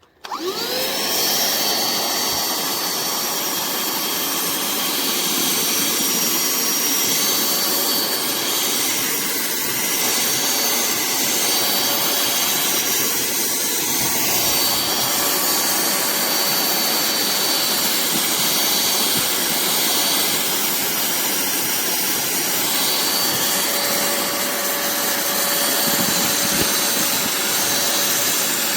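Cordless handheld vacuum switched on, its motor spinning up with a rising whine in the first second, then running steadily: a high whine over a rush of air.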